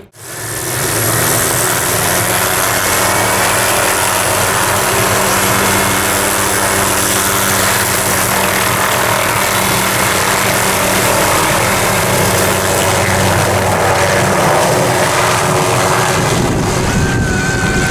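Helicopter running steadily as it departs, an even loud rotor and engine noise with a steady low hum. Near the end the low hum eases and a short thin high tone sounds.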